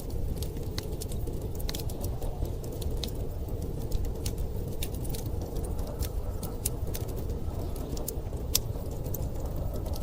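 Wood fire crackling, with many irregular sharp pops and snaps, over a steady low rumble of storm wind.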